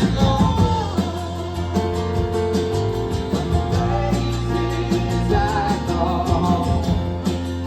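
Live band playing an instrumental jam: a lead line bending in pitch over sustained bass notes and a steady drum beat.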